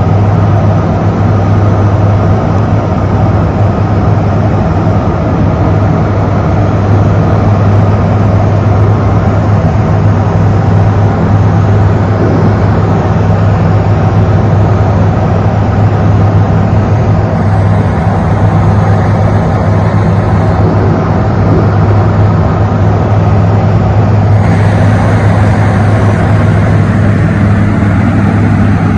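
Light aircraft's piston engine and propeller droning steadily, heard from inside the cockpit during cruise.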